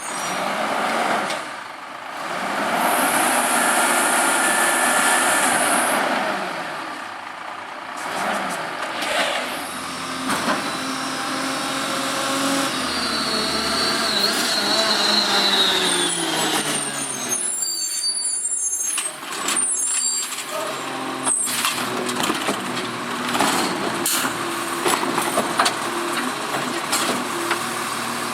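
Automated side-loader garbage truck at work: a hiss of air brakes, then the engine revving with a whine as the hydraulics run, followed by a run of clattering knocks as the load is dumped.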